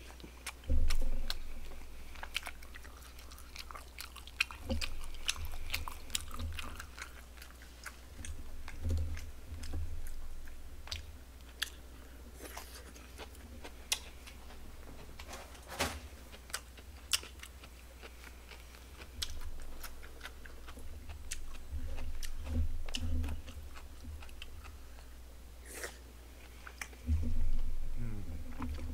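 Close-miked chewing and biting of barbecued pork (pig's trotters and bossam), with many wet mouth clicks and some crunches. Scattered low thumps, the loudest about a second in and again near the end.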